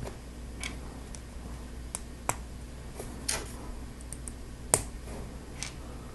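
Hard plastic Lego Technic pieces clicking as they are handled and pressed together: a handful of sharp, irregular clicks over a steady low hum.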